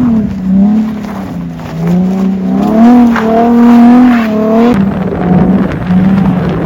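Infiniti G37's V6 engine revving hard, its pitch held high and wavering up and down with throttle, then switching abruptly to a steadier, rougher high-rev note about two thirds of the way through.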